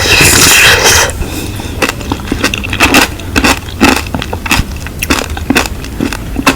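Strawberries being bitten and chewed close to the microphone. There is a dense burst of bite noise in the first second, then irregular sharp, wet chewing clicks.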